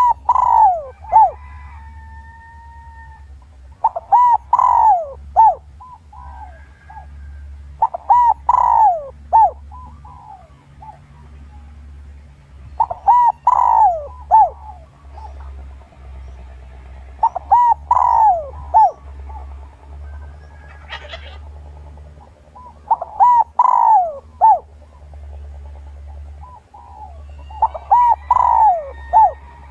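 Male spotted dove cooing: a short phrase of several coos, repeated about every four to five seconds, seven times. This is the territorial call of a decoy bird, used to draw wild doves in to fight. A steady low hum runs underneath.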